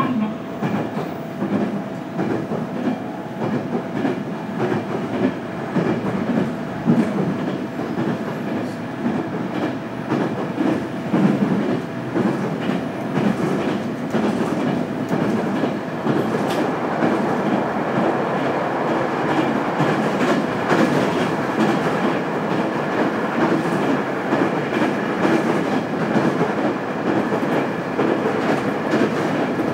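JR Kyushu 815 series electric train running, heard from inside the passenger car: a steady rumble of wheels on rail with a clickety-clack of rail joints and a steady hum.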